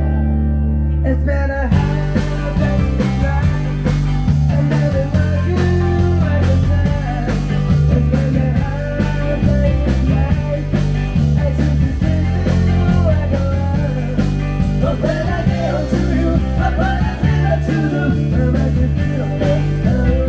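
Rock music with electric guitar, bass, drums and singing; the drums come in about two seconds in and a steady beat carries on.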